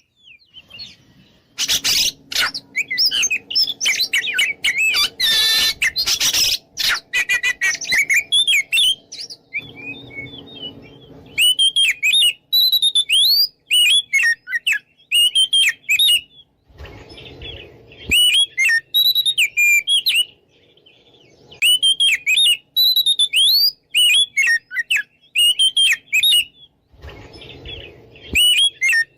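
Oriental magpie-robin singing loud, rapid phrases of varied whistles in repeated bursts with short pauses between them, with a denser, harsher chattering passage a couple of seconds in. This is the full, challenging song used to goad rival males into answering.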